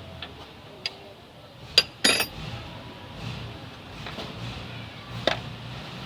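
Steel hand tools clinking against metal: a few sharp separate clinks, with a short quick rattle about two seconds in, as work goes on tightening the engine mount bolts.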